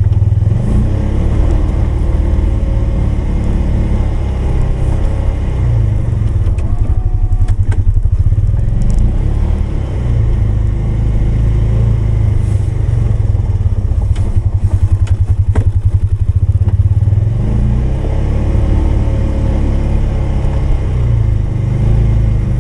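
Polaris 570's single-cylinder engine running steadily under plowing load, its revs rising and falling a few times.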